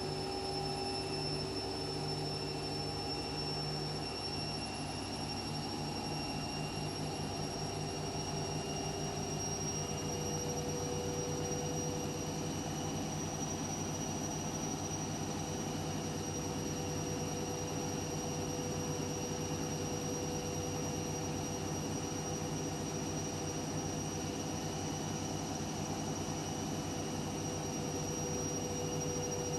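Washing machine running with a steady motor whir and a high whine whose pitch creeps slowly upward; a second, lower hum comes in about ten seconds in.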